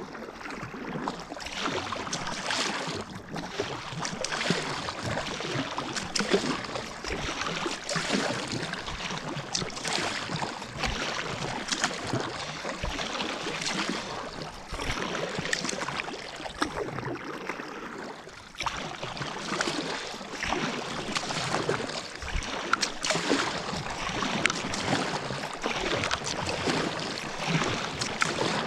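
Kayak paddle strokes in lake water: a run of repeated splashing swishes as the blades dip and pull, with water washing along the hull.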